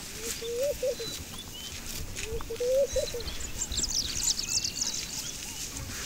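Birds calling: a low, wavering, rising call twice, about two seconds apart, and a quick run of high chirps about four seconds in.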